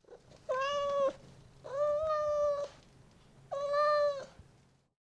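A cat meowing three times: three drawn-out, fairly even-pitched meows, the middle one the longest.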